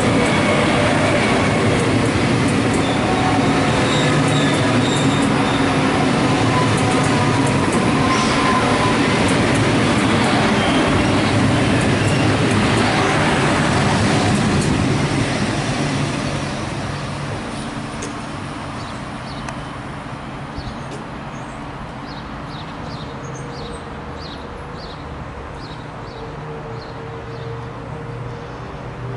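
Electric train passing through the station. It is loud and steady for about the first half, then fades away as it goes by.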